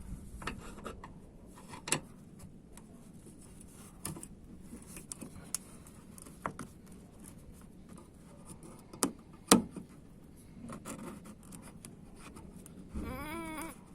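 Hand tools and spanners being handled while working on a car bumper: scattered light metallic clicks, knocks and rubbing, with one sharper knock a little past the middle.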